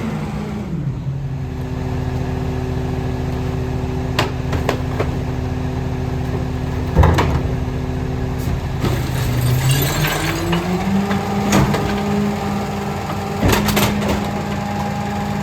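Rear-loader garbage truck's engine settling to a steady idle, then rising to a higher steady speed about ten seconds in. Over it come several sharp crashes and clatters of recyclables dropping into the rear hopper, the loudest about seven seconds in.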